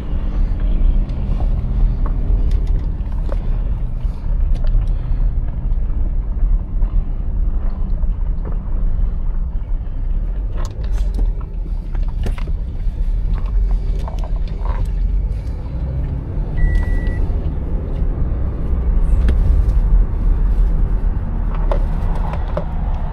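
Motor vehicle running with a steady low engine and road rumble, with scattered light clicks. A short, steady high beep sounds once, a little past the middle.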